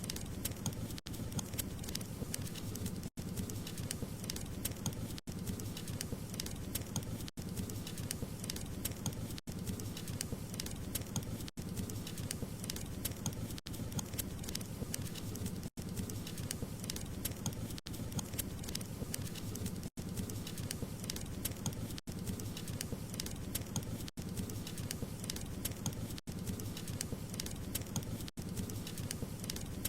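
Wood fire crackling steadily, with many small pops and snaps over a low rushing hiss of flame. Tiny dropouts in the sound come about every two seconds.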